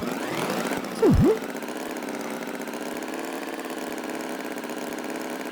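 Steady engine-like running hum. About a second in, a loud, quick swoop drops sharply in pitch and comes straight back up.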